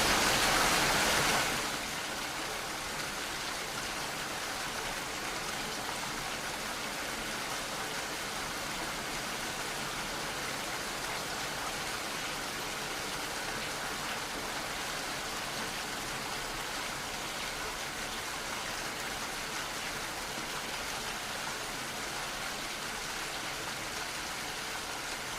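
Steady rainfall, a continuous hiss of rain with no single drops or thunder standing out. It is louder for the first second and a half, then drops to a softer, even level for the rest.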